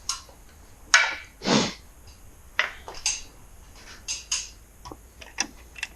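Hand tools and metal parts being handled while bolts are tightened: irregular clicks, knocks and a few short scrapes, the loudest a sharp click about a second in, followed by a longer rasp.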